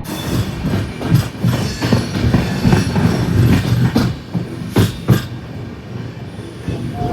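Express passenger train running along the track: a steady low rumble of the coaches with wheel clatter over rail joints, and several sharp clacks.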